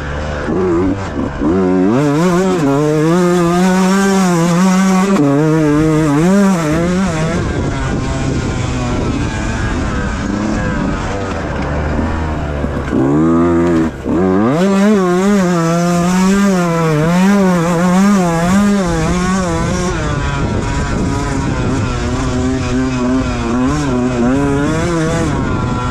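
Beta 125 two-stroke enduro motorcycle engine ridden hard, its revs rising and falling again and again as the rider works the throttle and gears. About fourteen seconds in the throttle shuts briefly, then the engine revs up steeply again.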